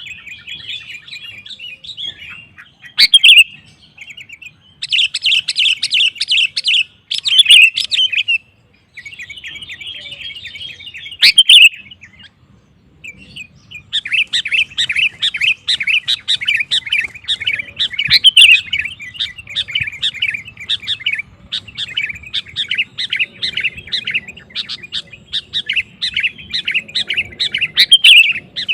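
Sooty-headed bulbul (kutilang) singing vigorously in bursts of rapid, chattering phrases. There is a short pause about twelve seconds in, then a long, almost unbroken run of song.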